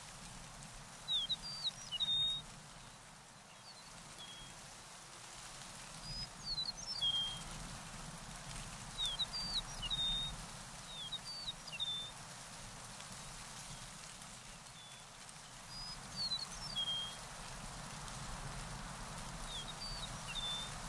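A songbird singing short phrases of quick chirps and slurred whistles, repeated about every three to five seconds, over a steady rushing hiss.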